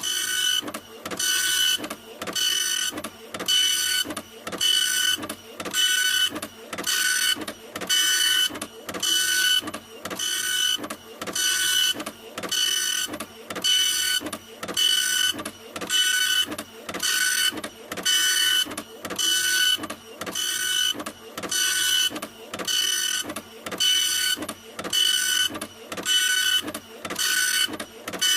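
A printer running, its print head passing back and forth about once a second; each pass is a whirring buzz with a steady high whine.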